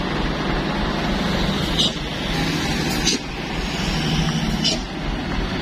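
Road vehicle engine running with a steady low drone, broken by three short sharp high-pitched sounds, the second followed by a slight drop in loudness.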